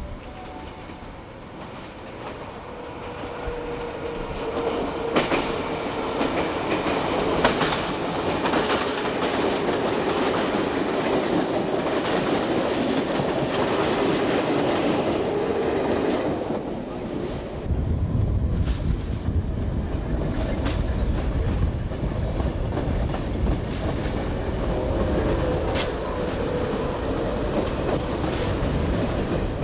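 A train running on the track, growing louder over the first few seconds, with wheels clicking over rail joints. A deeper low rumble sets in a little past halfway.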